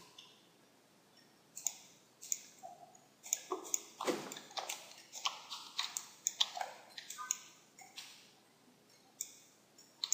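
Computer mouse clicking repeatedly: a run of short, sharp clicks at uneven spacing, fairly quiet, starting about a second and a half in and stopping shortly before the end.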